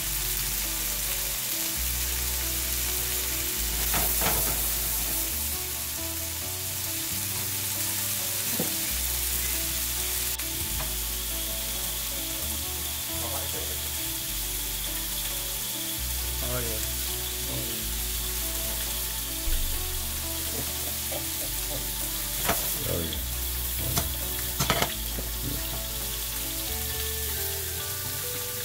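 Filet mignon pieces, halved baby potatoes and red onions sizzling steadily in a nonstick frying pan. The food is stirred now and then, with a few brief clatters.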